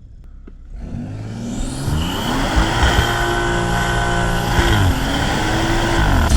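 BMW 540i's turbocharged B58 inline-six, fitted with a cold air intake, revving hard for a burnout: the revs climb from about a second in, hold high with a brief dip near five seconds, and drop off sharply at the end.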